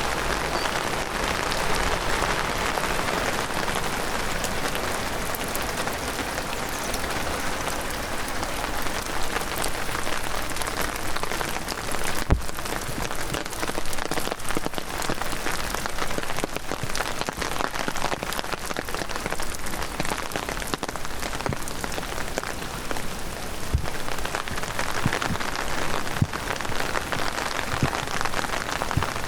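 Heavy downpour, a dense steady hiss of rain with many individual drops ticking sharply close by, and an occasional louder knock, the strongest about twelve seconds in.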